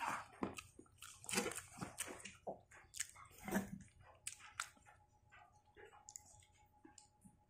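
A person chewing and biting food close to the microphone: a run of short, uneven mouth sounds, loudest about a second and a half, three and three and a half seconds in.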